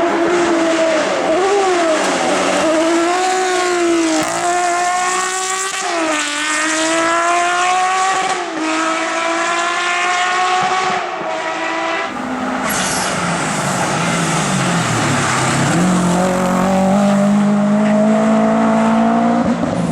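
A competition car's engine accelerating hard, its pitch climbing and then dropping back at each quick upshift, four or five times in a row. About twelve seconds in the note changes, and a lower engine note builds and rises steadily toward the end.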